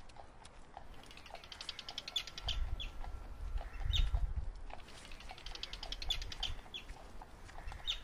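A bird's rapid chattering call, a quick run of high notes, heard twice. A low rumble swells in the middle.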